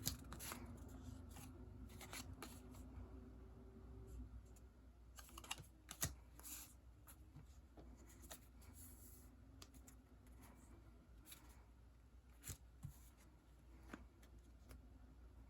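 Faint, scattered rustles and light clicks of sticker sheets and their plastic packaging being handled, over a low steady room hum.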